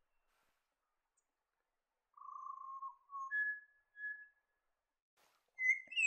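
Pied butcherbird singing: clear, fluting whistled notes, a lower drawn-out note followed by two short higher ones, then louder higher notes near the end.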